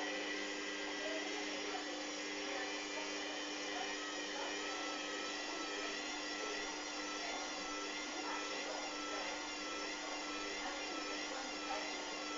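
Hoover washing machine's motor whining steadily with the drum turning at speed, its pitch wavering slowly up and down.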